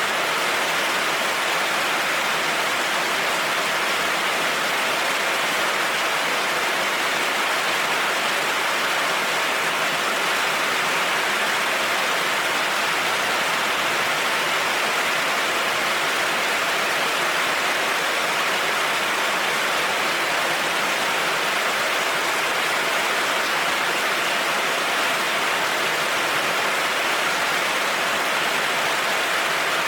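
Heavy rain falling steadily, an even hiss with no thunder or other sudden sounds.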